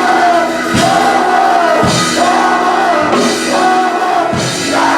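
Live gospel band playing a slow beat, with a drum kit hit about once a second under long held sung notes.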